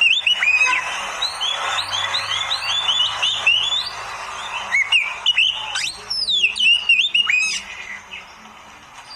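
Oriental magpie-robin (kacer) song: quick, varied whistled notes that sweep down and up, mixed with a rasping chatter in the middle, thinning out and going quiet near the end.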